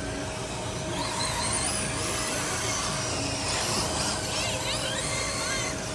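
Electric RC sprint cars racing around a dirt oval, their motors whining up and down in pitch as they speed up and slow down through the turns, over a steady hum.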